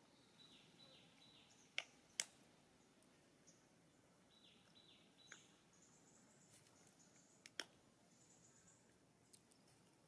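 Near silence with faint bird calls: two short runs of about four quick downward-sliding chirps, one near the start and one around the middle, and a few sharp clicks in between.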